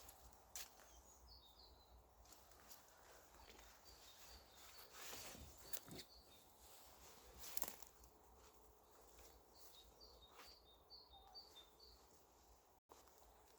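Quiet ambience with a small bird repeating runs of short high chirps, over scattered soft clicks and footsteps; the sound drops out completely for an instant near the end.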